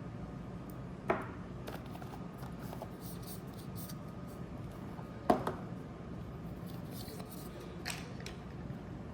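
Hands handling the Meta Quest 3 and its packaging: two sharp knocks, one about a second in and a louder one about five seconds in, with a few light clicks and rustles over a steady room hum.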